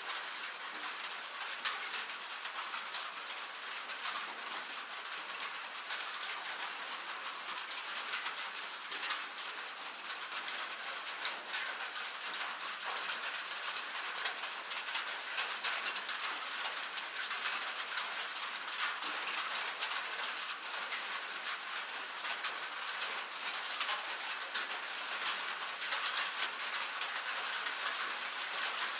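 Steady rain on a metal roof: a dense, even pattering of countless small drops striking the sheet metal, with no thunder or lull.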